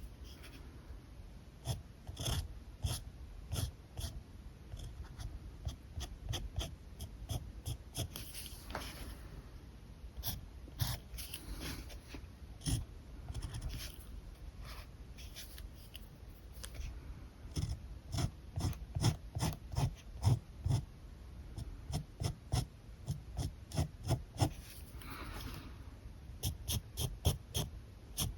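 Alcohol marker nibs drawing on paper: many short quick strokes and taps, some in rapid runs, with a few longer scratchy strokes.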